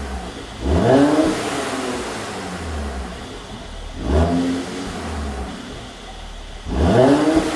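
Mercedes-Benz C450 AMG's twin-turbo V6 revved in three short blips, about a second in, about four seconds in and near the end. Each time the pitch climbs sharply and falls back to a lower running sound. The car's tune is set to pop on the overrun as the revs drop.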